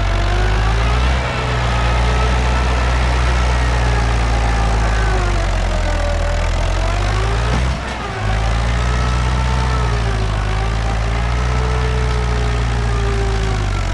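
Tractor diesel engine running under load, its pitch slowly rising and falling, with two brief drops about a second in and about eight seconds in.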